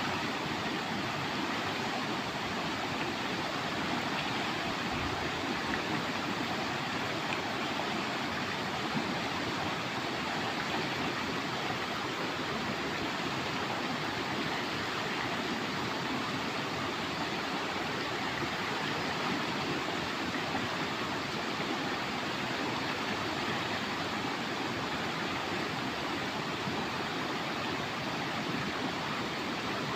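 Steady rushing of a clear, fast-flowing river.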